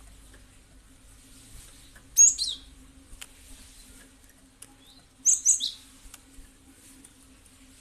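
Cinereous tit (gelatik batu) calling: two short bursts of sharp, high notes that slide downward, about three seconds apart, with faint clicks and a low steady hum underneath.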